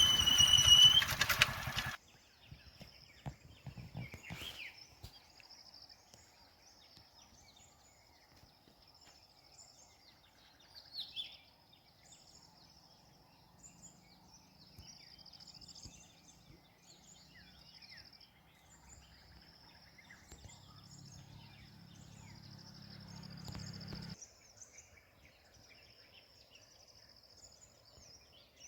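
Quiet outdoor ambience: a steady high insect drone made of many small chirps, with a few bird chirps and a faint low hum in the middle. A louder sound cuts off abruptly about two seconds in.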